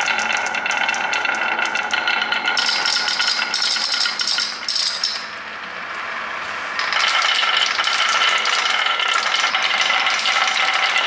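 Marbles rolling and clattering along plastic marble-run tracks: a dense, continuous rattle of small clicks that thins out for a moment around the middle, then picks up again.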